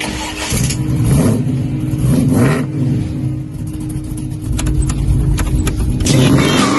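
Car engine running and being revved, starting suddenly, with a steady drone and a pitch that climbs near the end.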